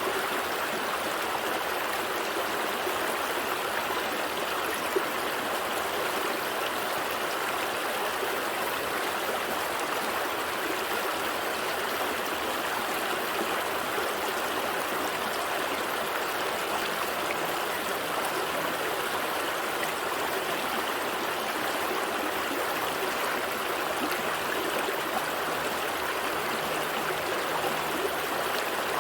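A gentle stream flowing and trickling over rocks: a steady, even rush of water that holds the same without change.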